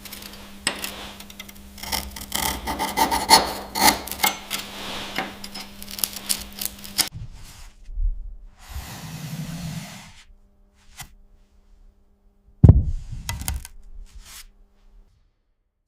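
Dense, rapid scraping and rasping, as of metal being worked, over a steady low hum, for about seven seconds. A softer scraping stretch follows, then one sharp loud knock about three-quarters of the way through.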